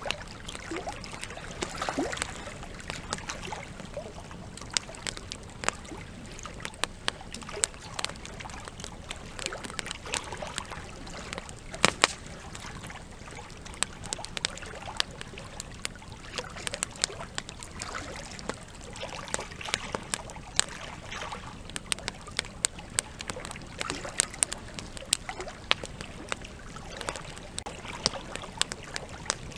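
Campfire crackling, with frequent irregular sharp pops and snaps over the steady sound of a flowing river. The loudest pop comes about twelve seconds in.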